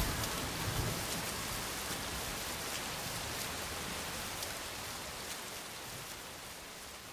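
Steady rain hiss with scattered drop ticks, a low rumble dying away in the first second, then the rain slowly fading out.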